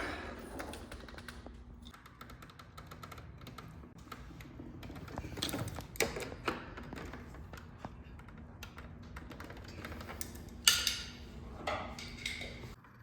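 Irregular clicks, taps and knocks of tools and parts being handled, over a faint steady hum. The loudest is a sharp knock with a brief ring about three-quarters of the way through.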